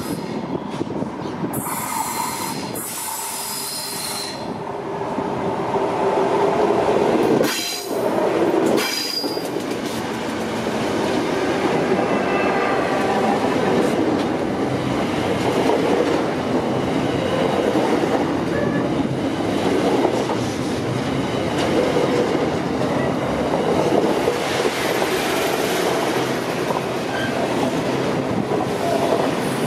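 Intermodal freight train's wagons rolling past close by: a steady rumble of steel wheels on rail, growing louder after about five seconds, with thin high wheel squeals at times.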